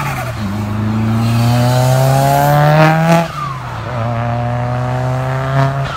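Turbocharged SR20DET engine of a Nissan S13 fitted with an HKS GT3 RS turbo, revving up hard under load. Its pitch climbs steadily for about three seconds, drops sharply as at a gear change, then pulls again more slowly.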